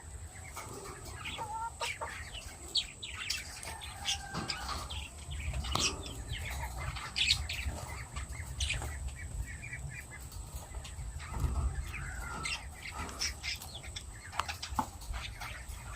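Lovebirds chirping in short high calls, with quick wing fluttering, over a low steady rumble.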